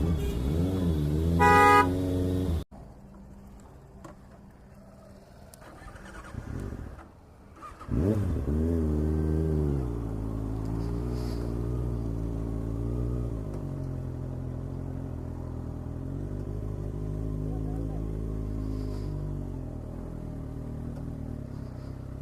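Kawasaki ZX-6R's inline-four engine running on the move, its pitch rising and falling with the throttle, with a short horn beep about a second and a half in. The sound drops off abruptly after nearly three seconds and stays quieter for about five. The engine comes back loud with a rev about eight seconds in, then runs on fairly steadily.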